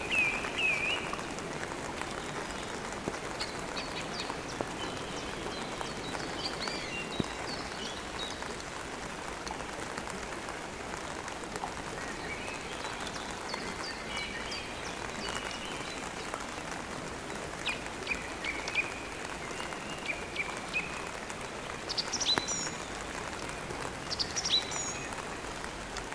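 Steady rain with birds chirping over it, the twittering coming in short clusters every few seconds.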